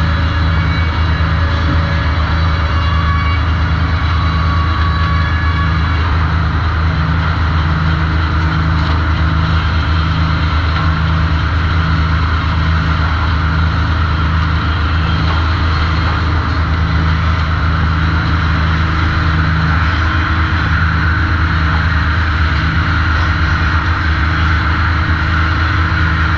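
Sawmill machinery running steadily: a loud, continuous low drone with a faint regular pulsing in the hum and no separate saw cuts standing out.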